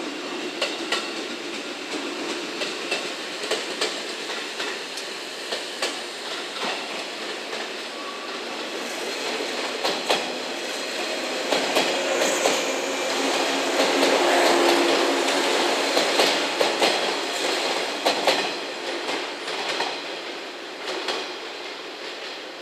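JNR 113 series electric train pulling out and running past close by, its wheels clicking and clattering over rail joints and points. The sound swells to its loudest about two-thirds of the way through as the cars go by, then fades as the train draws away.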